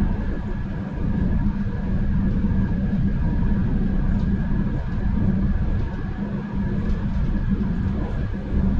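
RTD A Line electric commuter train running: a steady rumble of wheels on track with a constant hum.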